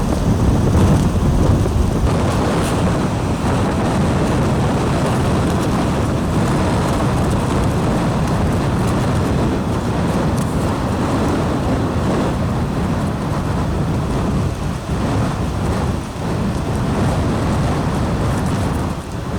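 Strong gusty wind buffeting the microphone: a loud, steady, low rumbling noise that dips briefly near the end. The gusts come from a steep pressure gradient behind a deepening cyclone and reach over 40 mph.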